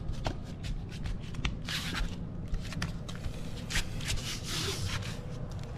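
Foam flooring pieces being handled and pressed into place, with scraping and rustling and many small clicks; two longer rustling stretches, about a second and a half in and again near four seconds. A steady low hum runs underneath.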